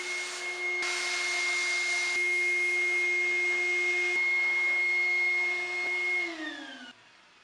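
Small high-speed electric power tool running with a steady whine and hiss, the hiss growing rougher for about a second near the start. It is switched off about six seconds in, its pitch falling as the motor winds down.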